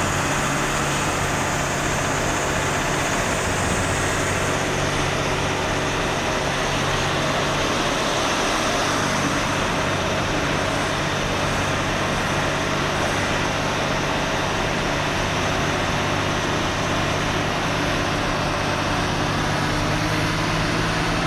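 Truck engine running steadily under a constant rush of road noise while driving.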